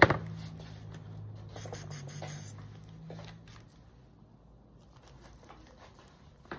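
A cat clawing at a scratching post, with short bursts of scratching strokes about one and a half to two and a half seconds in, then a few more before it goes quiet.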